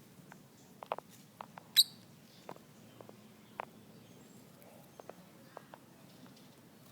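Small pet birds making scattered light taps and clicks, with one short, sharp, high chirp a little under two seconds in.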